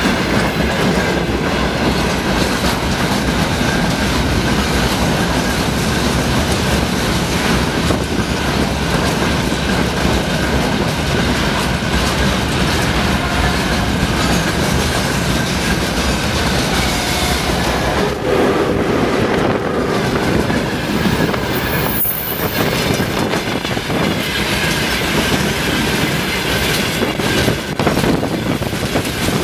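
Two freight trains passing each other close by: a steady rumble and clatter of loaded wagon wheels over the rails, with a thin wheel squeal. Partway through, the gondola wagons give way to an oncoming train of tank cars hauled by a VL80S electric locomotive.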